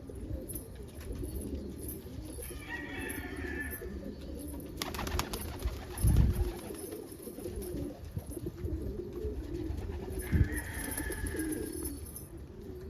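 Domestic pigeons cooing continuously, several low, wavering coos overlapping.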